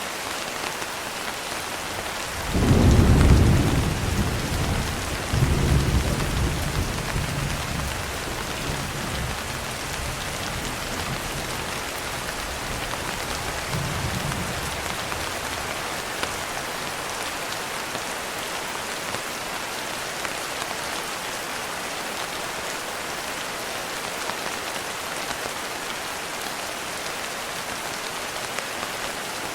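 Steady heavy rain with thunder. A loud clap of thunder breaks in about two and a half seconds in, and a second comes about three seconds later and rolls away. A fainter rumble follows near the middle.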